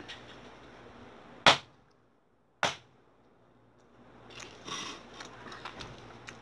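Two sharp clicks about a second apart, with a dead silence between them. Then, from the middle on, soft crackly mouth sounds of someone chewing tamis flatbread.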